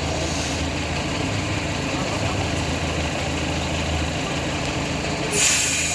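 Miniature railway locomotive's diesel engine idling steadily while the train stands in a passing loop. A sudden loud hiss breaks in near the end.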